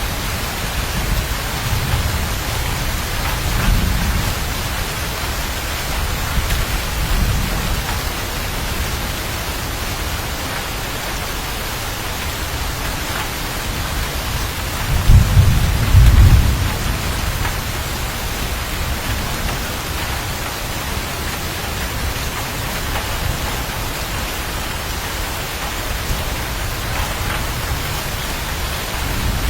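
Steady heavy rain with rolls of thunder: low rumbles in the first few seconds, and a louder deep thunderclap rumbling about fifteen seconds in.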